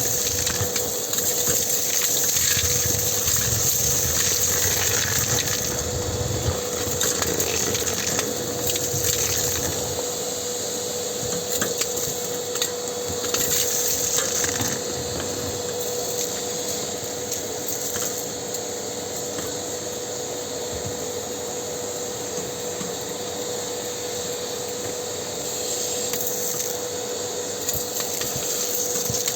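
Vacuum cleaner running steadily with a constant hum, sucking plaster dust and debris out of a fireplace hood, with small scrapes and clicks of the nozzle.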